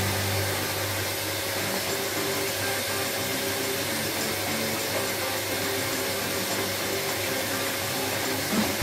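Canister vacuum cleaner running steadily as its hose nozzle is moved over the floor.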